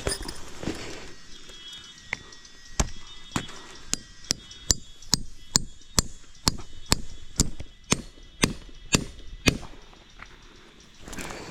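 Repeated chopping strikes in a steady rhythm, about two a second, starting about three seconds in and stopping about two seconds before the end.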